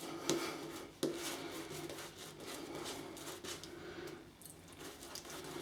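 Shaving brush working shaving cream into a lather, with soft bristle swishes and small squelches, and a sharper click about a second in.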